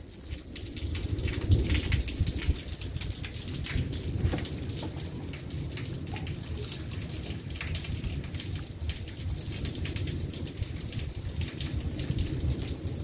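Steady rain falling, with many separate drops ticking close by over a low rumble.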